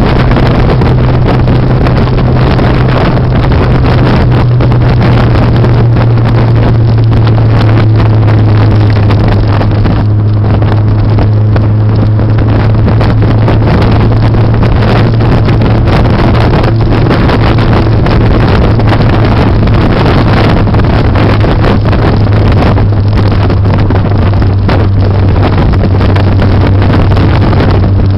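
Turbocharged Mazda MX-5 engine pulling steadily at track speed, heard from inside the cabin as a loud, even drone with wind noise over it; the turbo is running reduced boost, 8 psi instead of the usual 12, because of a burnt vacuum pipe.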